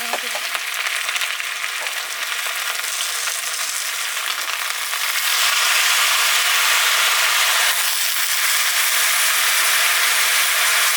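Food sizzling as it fries in a pan, a steady hiss that grows louder about five seconds in.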